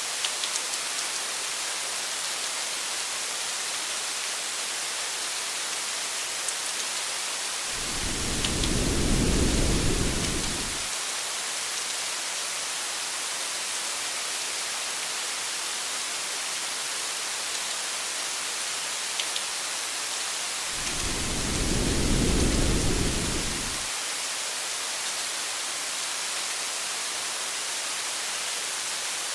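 Steady rain with two low thunder rumbles, each about three seconds long: one about eight seconds in and another about twenty-one seconds in.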